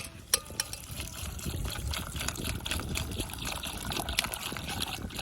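Fruit compote being poured, a steady trickling pour that starts about half a second in after a couple of light clinks.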